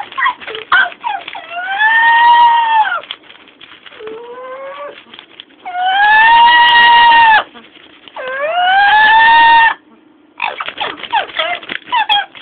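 Blue-fronted amazon parrot calling: three long, drawn-out cries that rise in pitch and then hold, between bursts of short, choppy squawks at the start and near the end.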